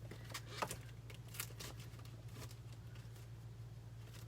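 Faint, scattered clicks and rustles of small plastic packets of craft embellishments being handled and sorted, over a steady low electrical hum.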